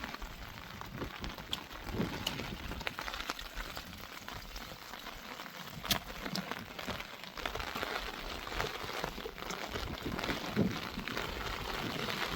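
Steady rain falling, with scattered sharp drop taps and one louder click about six seconds in.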